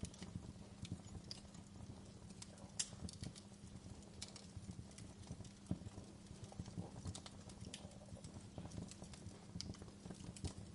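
Wood fire crackling in a fireplace: irregular sharp snaps and pops over a low rumble, with a faint steady hum underneath.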